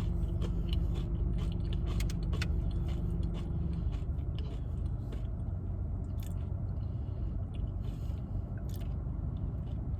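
A person chewing food close to the microphone, with scattered crunchy bites and mouth clicks. A steady low hum runs underneath, and a humming tone in it stops about four seconds in.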